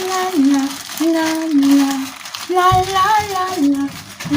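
A woman singing on wordless 'la la la' syllables, holding long notes that step up and down between a few pitches.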